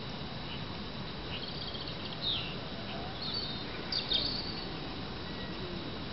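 Small birds chirping in a few short, high calls, the loudest about two and four seconds in, over a steady low background noise.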